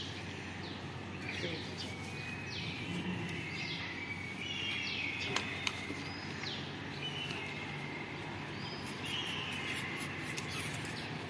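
Small birds chirping again and again, each a short falling chirp, over a steady background hum, with two sharp clicks about five and a half seconds in.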